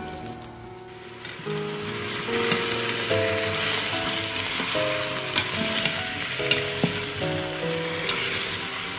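Raw chicken drumsticks sizzling in hot oil and spice paste in the stainless inner pot of an Instant Pot on sauté; the sizzle swells about two seconds in as the chicken goes in, then stays steady while a spatula stirs, with a few sharp clicks against the pot.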